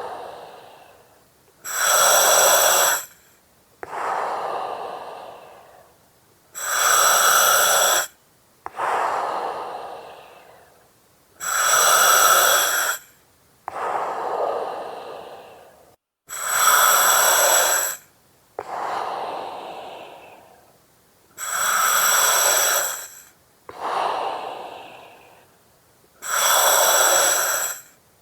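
Slow, regular breathing through an oxygen mask, about six breaths: each one a loud hiss of about a second with a whistling edge, then a softer breath that fades away.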